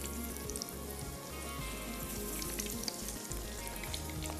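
Breadcrumb-coated chicken sticks sizzling steadily in oil over low heat, with a light scattered crackle.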